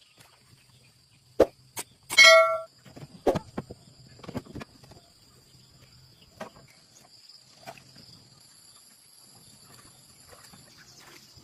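A sharp knock, then a loud ringing metal clang about two seconds in, followed by scattered lighter knocks and clicks. A faint steady high-pitched whine runs behind.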